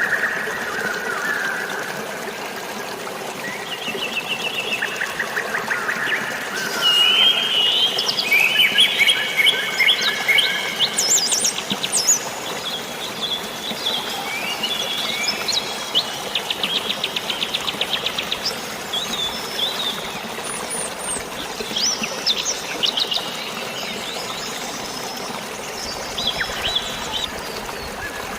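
Several birds chirping and trilling in quick, overlapping phrases, busiest in the middle, over a steady hiss of water and rain.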